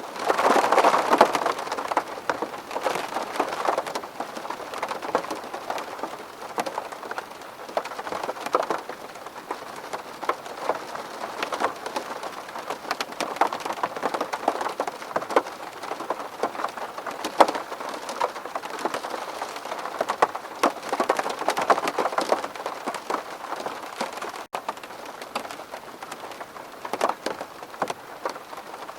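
Rain falling on a window, many separate drops tapping on the glass over a steady wash of rain. It comes heavier about a second in and again around two thirds of the way through.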